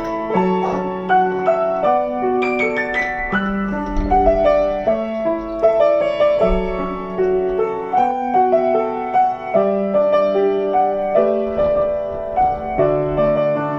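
Background piano music: a gentle melody over changing chords, with new notes struck about every half second.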